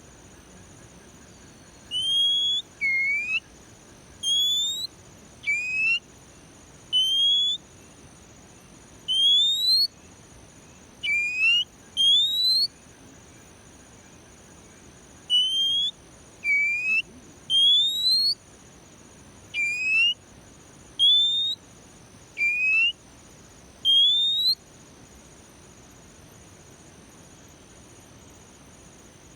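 A songbird whistling short, clear, upward-sliding notes, one at a time at irregular gaps of about a half to three seconds, some pitched higher and some lower; they stop for the last few seconds. A steady, thin, high-pitched hiss or tone runs underneath throughout.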